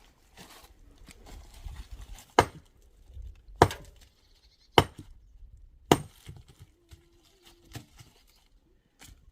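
Four sharp, evenly spaced strikes, about one a second, of a hand tool hitting a hard material.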